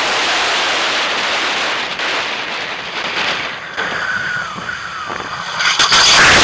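Wind rushing over the microphone of a camera on a moving motorcycle: a loud, even hiss that eases about two seconds in, with a thin whine gliding down around four seconds in and the rush swelling again near the end.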